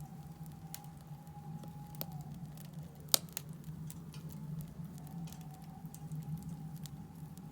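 Wood fire of split firewood burning in a Solo Stove Campfire fire pit, crackling with irregular small pops and one sharper pop about three seconds in.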